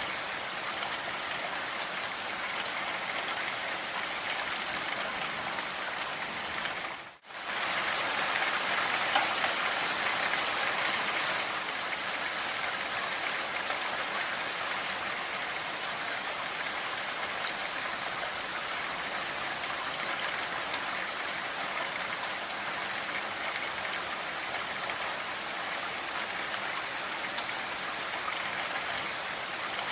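Steady rain falling, an even hiss of many drops. About seven seconds in it cuts out for a moment and comes back slightly louder for a few seconds.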